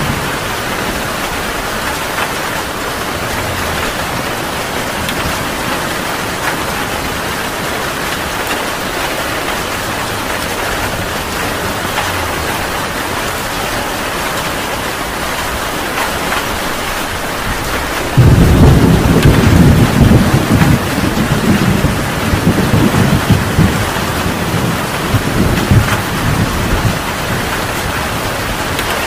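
Heavy rain falling steadily. About two-thirds of the way in, a loud rumble of thunder breaks in suddenly and rolls on in waves for several seconds before sinking back under the rain.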